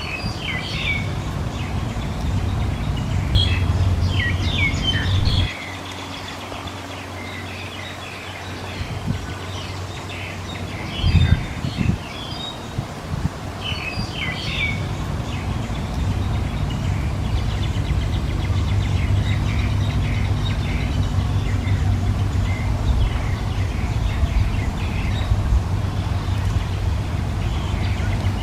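Small birds chirping in short bursts of quick, high notes, over a steady low rumble that drops away for a while about five seconds in, with a brief low thump near the middle.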